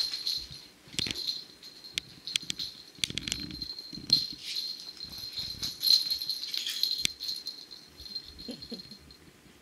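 A small bell jingling on and off, with rattling and sharp little knocks, as from cats playing with a bell toy. A brief lower pitched sound comes near the end, and the jingling dies away just before the end.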